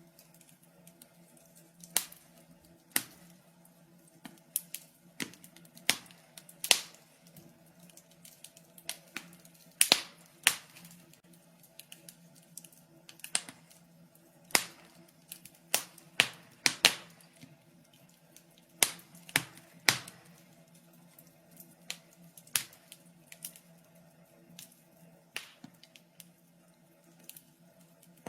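Wood fire crackling in a fireplace: irregular sharp pops and snaps, one to three a second, over a faint steady low hum.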